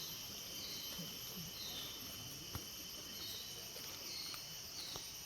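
Rainforest insects making a steady high-pitched drone on several pitches, with a few short high chirps over it.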